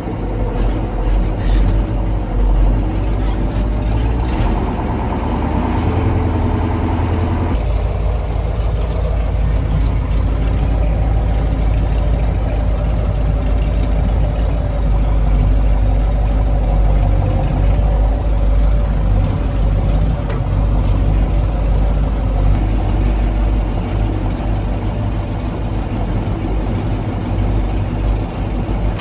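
KAMAZ 4310 truck's V8 diesel engine running steadily with a deep low rumble. The sound changes abruptly about seven seconds in.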